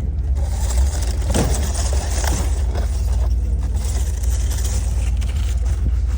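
Car in motion heard from inside the cabin: a steady low rumble of engine and road noise, with light rattling and scraping sounds over it.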